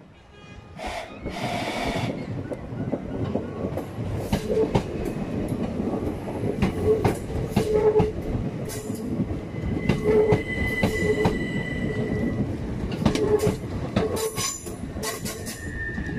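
Southern Class 377 Electrostar electric multiple unit running past along the platform: a rising rumble of wheels on rail, with repeated clacks as the wheels cross rail joints and a steady high wheel squeal for a couple of seconds near the middle.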